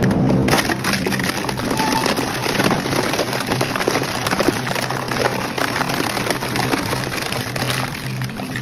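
Industrial shredder's rotating cutters crushing and tearing hard material, a dense run of sharp cracks and snaps over the steady hum of the drive.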